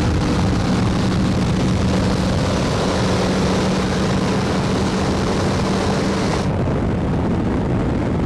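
Steady vehicle noise of highway driving: wind and road rush over a low, even engine drone. About six and a half seconds in, the sound changes abruptly, losing its hiss and drone.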